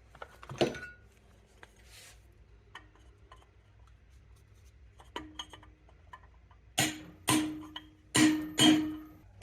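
A hammer on a socket used as a drift, pounding a tight sealed bearing into the heated gearbox casing of a 1967 Triumph T100C. A few light metallic clinks come first, then four hard, ringing metal strikes about half a second apart, starting around seven seconds in.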